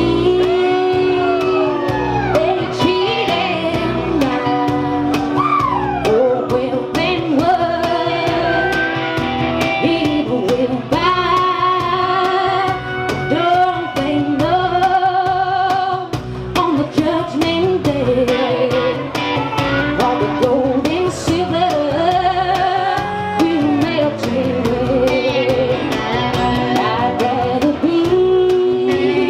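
Live band performance: a woman sings sustained lines with vibrato over guitar and a steady beat.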